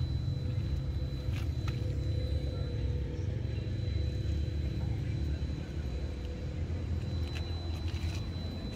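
A car engine idling: a steady low rumble, with a faint steady high tone and a few light clicks.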